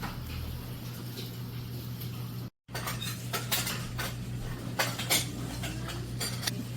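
Light clinking and clattering of small hard objects, like dishes or utensils being handled, several sharp clinks in the second half, over a steady low hum.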